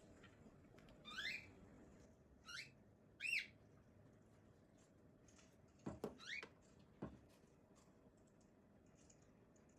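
A few short chirping calls that sweep up and down in pitch, over quiet room tone, with two sharp clicks about six and seven seconds in.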